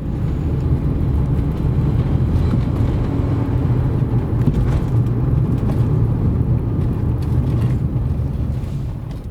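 A 2007 Suzuki Grand Vitara 2.0 automatic driving, a steady low rumble of engine and road noise that eases off near the end as it slows. No squeal comes from the rear drum brakes, whose drums have just been machined to cure the squeal.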